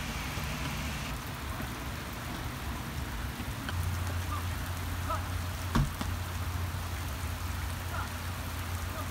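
Steady rain falling on a wet grass pitch and pavement, an even hiss throughout. A single sharp knock cuts through a little under six seconds in, and a low steady hum joins at about four seconds.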